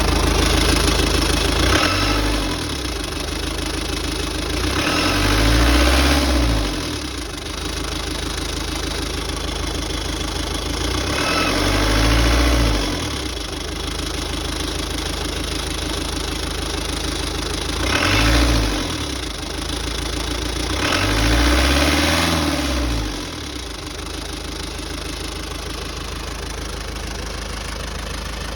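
Freshly rebuilt Iveco Daily Mk2 engine idling, revved five times in short blips, each rise in pitch falling back to idle.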